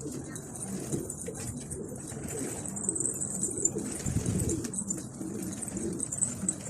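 Pigeons cooing in a continuous low burble, with faint high ticking over it.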